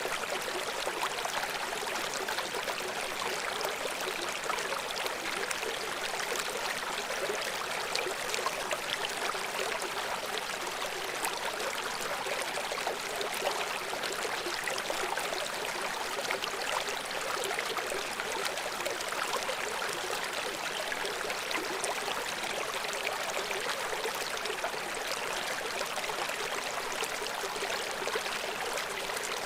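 River water flowing and splashing steadily, with many small trickles and splashes and little low rumble.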